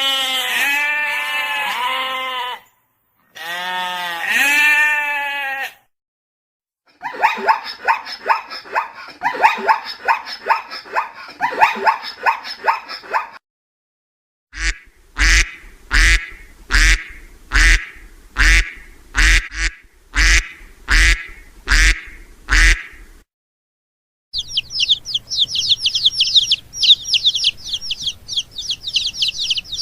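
A sequence of different animal calls, one recording after another. First two long wavering calls, then a run of rapid pitched calls, then about a dozen evenly spaced calls roughly one a second, each with a low thump beneath it. The sequence ends with fast, high chirping from small birds.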